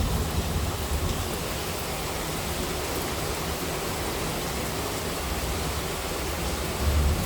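Heavy monsoon rain falling as a steady, even hiss, with a brief low rumble near the end.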